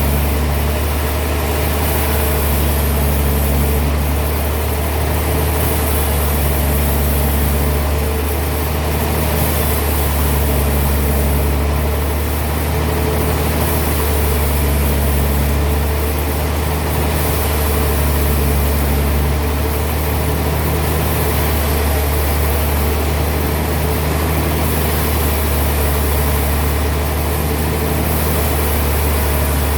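Heavy sawmill machinery running steadily: a loud, low engine-like hum that swells and eases every few seconds.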